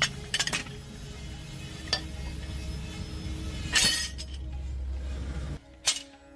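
Metal clinks and taps over a steady low machine hum, with a louder rasping burst about four seconds in. Near the end the hum cuts off and a sharp metal strike rings on.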